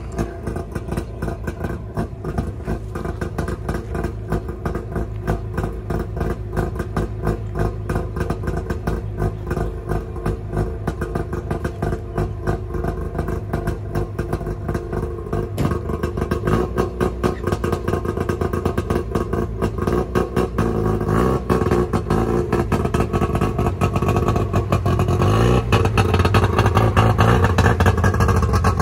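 Two-stroke Trabant engine running with no exhaust pipe fitted, giving a fast, even stream of pops. It grows louder in the second half as the pickup drives up close.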